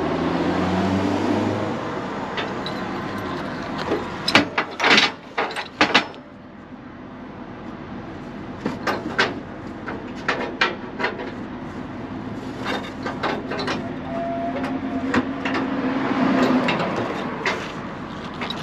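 Wheel tie-down strap on a car-hauler trailer being loosened: bursts of metal clicks and clatter from the strap hardware, the busiest about four to six seconds in and more scattered later. Under it runs a steady hum of vehicle and traffic noise.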